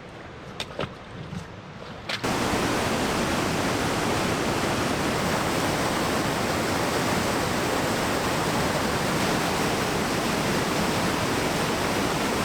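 Steady rushing roar of a river waterfall and its rapids, cutting in abruptly and loud about two seconds in. Before that, quieter water with a few light knocks.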